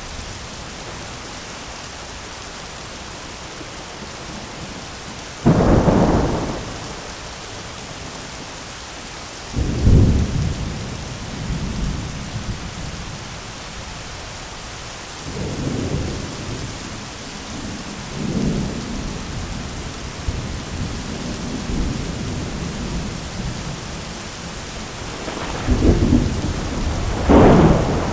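Thunderstorm: steady rain with repeated thunder, a sudden loud clap about five seconds in, further rumbles a few seconds apart, and two more loud claps near the end.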